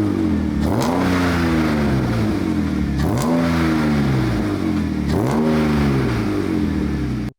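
BMW E36 with an ISR Performance exhaust and muffler, revved three times, each rev climbing quickly and sinking back slowly, about two seconds apart. The sound cuts off suddenly near the end.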